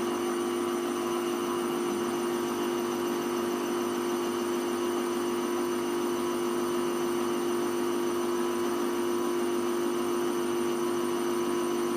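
Hoover Vision Tech VT 914 D22X washing machine running with a steady, even motor hum that holds one pitch.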